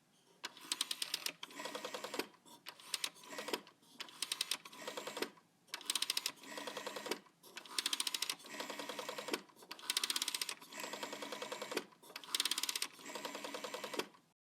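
Telephone ringer rattling with rapid strikes in repeated rings, about seven of them roughly two seconds apart, each a louder burst trailing into a softer one.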